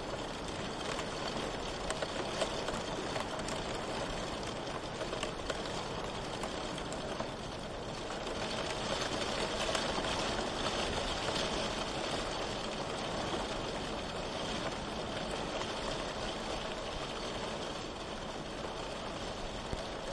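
Steady rain falling, an even hiss with scattered drop ticks, swelling slightly in loudness about halfway through.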